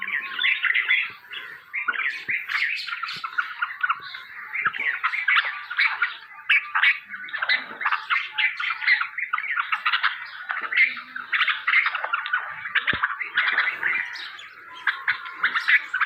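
Hungry nightingales calling without pause, a dense chatter of rapid high chirps and squawks: birds begging to be fed.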